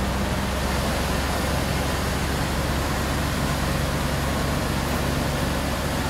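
An engine running steadily, with a broad hiss over it.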